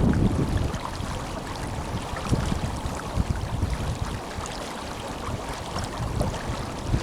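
Tenryū River flowing strongly, a steady rush of running water, with wind buffeting the microphone in uneven low rumbles.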